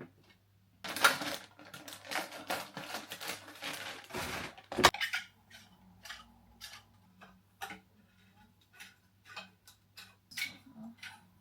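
Metal curtain rod and its fittings being handled: a few seconds of dense rattling and clinking, one sharp clack near five seconds in, then scattered light clicks.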